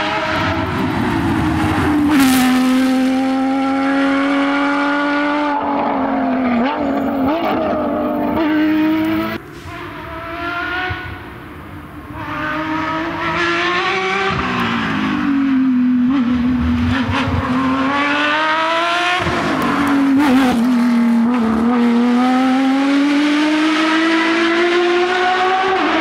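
Porsche 911 rally car's flat-six engine being driven hard, its pitch climbing under acceleration and dropping back at each shift or lift, over and over. The engine goes briefly quieter about ten seconds in, then rises again.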